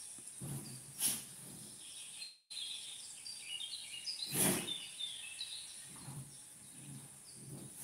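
Outdoor ambience with small birds chirping in a run of short high calls, starting just after a brief moment of silence near the middle. Two short bumps, about a second in and a little past the middle, are the loudest sounds.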